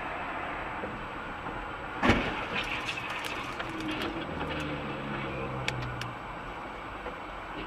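Steady road and traffic noise, then one loud crash of a car collision about two seconds in, followed by several seconds of scattered clattering and ticking.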